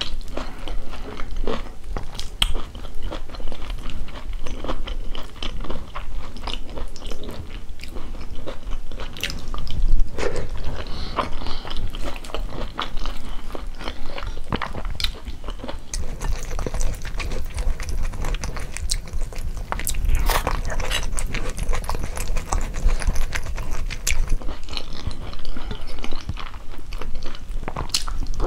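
Close-miked chewing and mouth sounds of someone eating ugali with cabbage and beef stew by hand: a steady run of many small clicks from chewing and handling the food.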